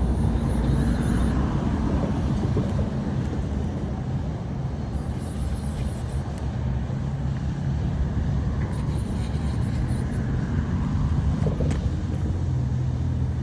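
Steady low rumble of road traffic, with the engine drone of passing vehicles rising and falling slightly.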